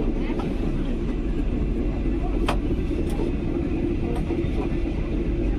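Passenger train running on the rails: a steady low rumble with a few short sharp clicks from the wheels and track.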